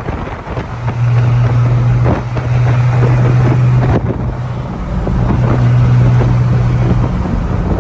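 Pickup truck under way with its aftermarket car sound system playing loud through the rear speakers: a deep, steady bass note held for a second or two at a time with short breaks, over road and wind noise.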